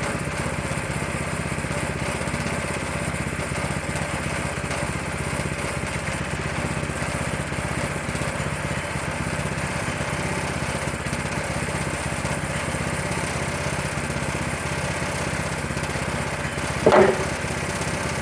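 Small gasoline engine running steadily at an even speed. A brief, louder sound cuts in near the end.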